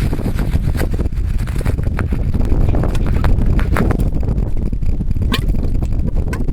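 Geothermal mud pots bubbling: carbon dioxide bubbles burst through the slurry of mud in irregular pops and plops, over a heavy low rumble of wind on the microphone.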